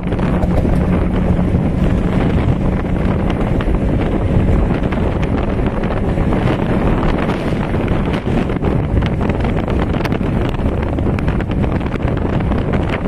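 Wind buffeting the microphone on a speedboat running at speed, with hull and water noise. The boat's twin Yamaha 200 hp two-stroke outboards run underneath, their steady hum plainest in the first few seconds.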